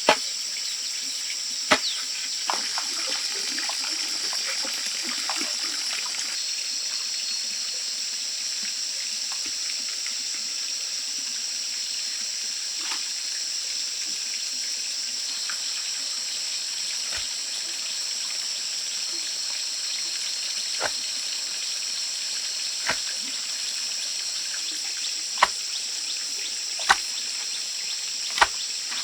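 Steady high-pitched rainforest background with a string of sharp single knocks, sparse at first and coming about every second and a half near the end.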